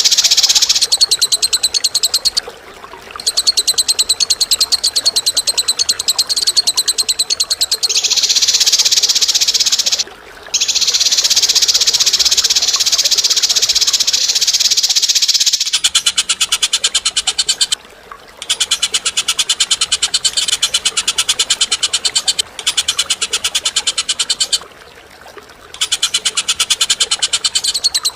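A bird's harsh, rapid rattling song, given in long phrases of several seconds broken by short pauses. The rattle sits high and is very fast, almost buzzing, and its character shifts slightly about halfway through, as if a different recording follows.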